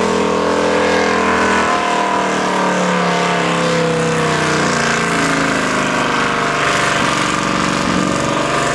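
Pulling truck's engine running hard at high revs as it drags the sled. Its pitch sags about two seconds in as the load builds, then wavers up and down.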